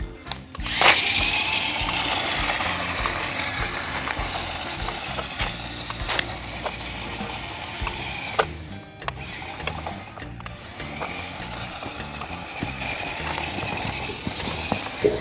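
Toy remote-control rock crawler's electric motor and gearbox whirring as it runs, starting abruptly about a second in and rising and falling in level, with scattered clicks and knocks.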